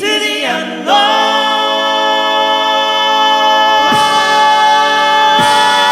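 All-male a cappella group singing: the voices slide into a chord about a second in and hold it, long and steady, with a couple of short low thumps underneath.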